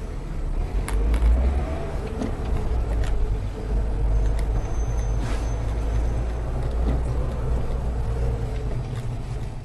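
Motor vehicle driving, a steady low rumble of engine and road noise as picked up by a dashcam, with a few sharp clicks and knocks; it cuts off suddenly at the end.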